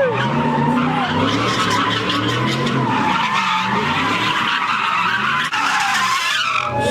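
A car sliding in circles, its tyres screeching without a break while the engine revs up and down.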